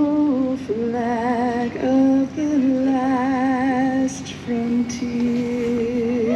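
A woman singing long, held notes with a wavering vibrato, one phrase after another with short breaths between them.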